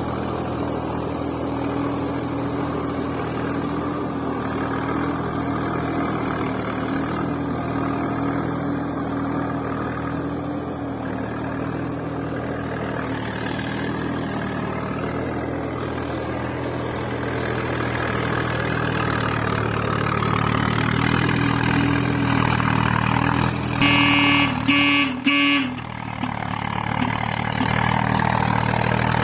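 Vehicle engine running steadily, with two short horn blasts near the end.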